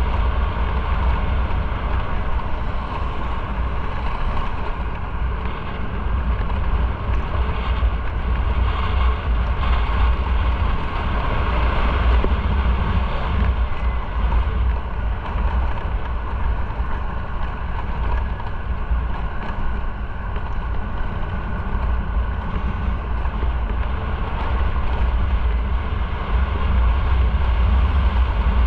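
Riding a motorcycle at a steady pace: wind rumbling on the microphone over the running engine and road noise, steady throughout.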